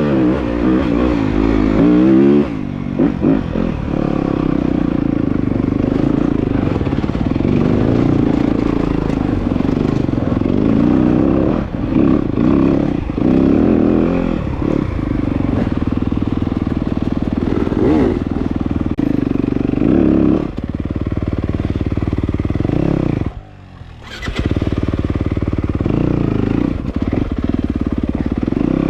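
Dirt bike engine running under changing throttle as the bike is ridden, revving up and down. The throttle drops off sharply for about half a second about 23 seconds in, then picks back up.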